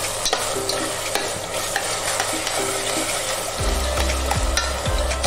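Small onions and tomatoes sizzling in hot oil in a metal pot while a slotted steel spoon stirs them, with scrapes and clicks of the spoon against the pot. A low hum comes in about three and a half seconds in.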